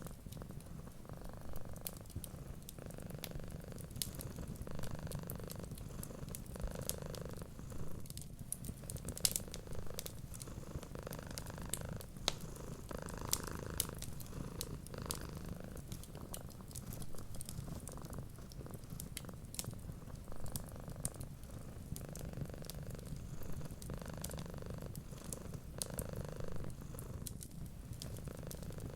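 Cat purring steadily, the purr swelling and fading with each breath, over the scattered crackles and pops of a wood fire.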